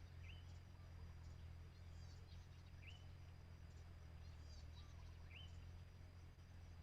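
Faint outdoor bird calls: a short sweeping chirp repeated three times about two and a half seconds apart, with fainter higher chirps between, over a steady high insect drone and a low hum.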